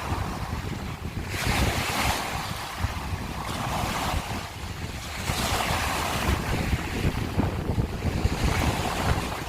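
Small sea waves breaking and washing over a beach of broken scallop shells, surging in a hiss every few seconds, with wind buffeting the microphone throughout.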